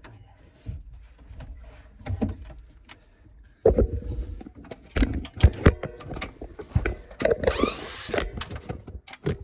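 Cordless drill driving a screw into the metal coil strap: about a second of rising motor whine a little past halfway, after several knocks and rattles of the screw and sheet metal being handled.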